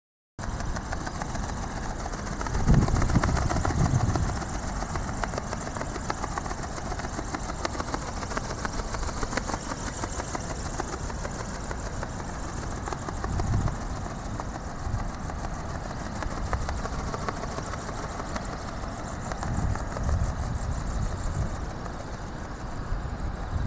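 Electric drive of a radio-controlled flapping-wing ornithopter running with a steady fast buzz, with gusts of strong wind rumbling on the microphone about three seconds in and twice more later.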